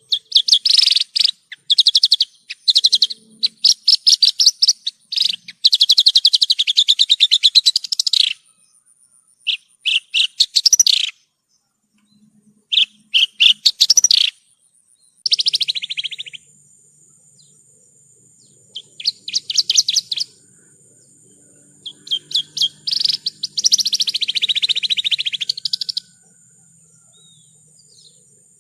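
Javan bush lark (branjangan) singing: bursts of rapid, trilled phrases a second or two long, broken by short pauses. A thin steady high tone runs in the background from about halfway through.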